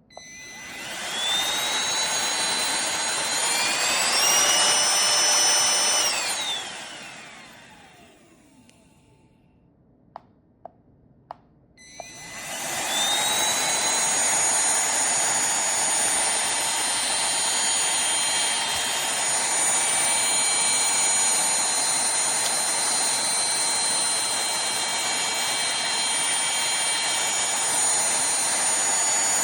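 Cordless handheld vacuum cleaner's motor whine, spinning up at the start and stepping up to a higher pitch about four seconds in, then switched off and winding down. A few sharp clicks follow, then the motor starts again about twelve seconds in and runs steadily.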